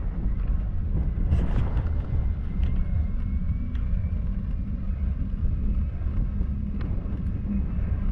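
Wind buffeting the microphone while riding: a steady low rumble, with a faint thin whine around three seconds in.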